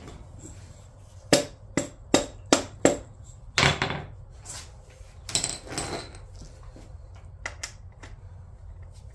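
Sharp metallic knocks and clinks of hand tools or engine parts being handled: five quick strikes about a third of a second apart, then two longer rattles, and two light clicks near the end.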